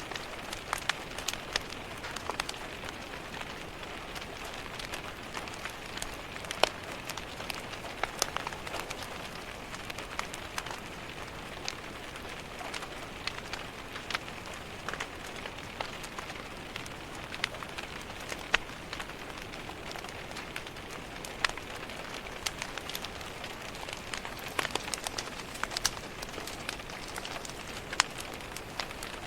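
Steady rain hiss mixed with the irregular crackles and sharp pops of a wood fire burning in a fireplace.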